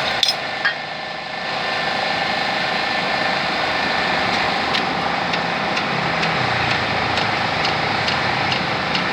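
A steady mechanical running noise, like an engine, with a faint held tone and a few light clicks.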